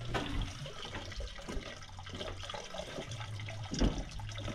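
Water running steadily from a tap into a container as it is filled.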